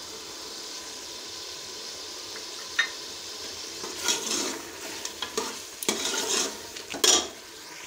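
Chicken and green chilli paste sizzling in ghee in a pressure cooker pot, with a steady hiss. From about halfway through, a metal ladle stirs and scrapes the pot, and the loudest scrape comes near the end.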